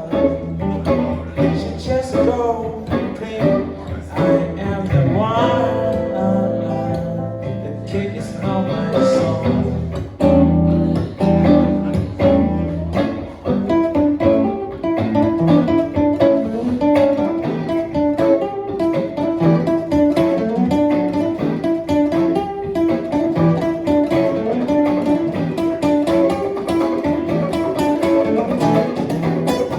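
Acoustic and electric guitars jamming together in an instrumental passage, with quick picked notes running through it.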